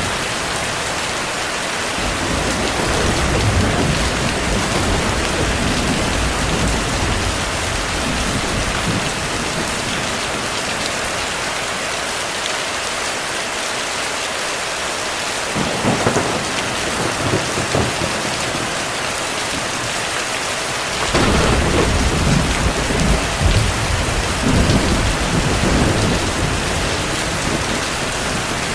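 Heavy rain falling steadily, with distant thunder rumbling under it: a short roll about halfway through, then a louder roll that breaks in suddenly about three-quarters of the way through and rumbles on for several seconds.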